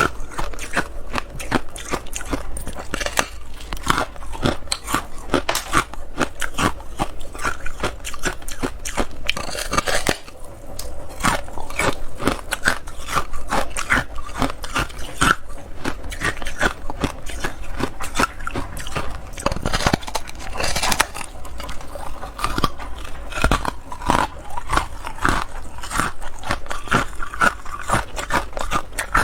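Close-up crunching of hard carbonated ice being bitten and chewed: rapid cracks and crackles with no break.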